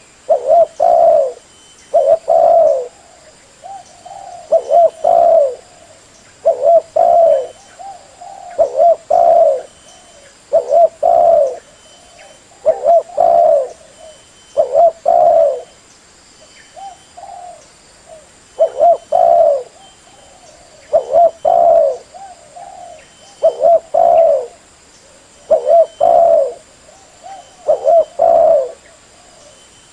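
Spotted dove cooing: short phrases of two or three low, loud coos repeated about every two seconds, with a brief lull about halfway through.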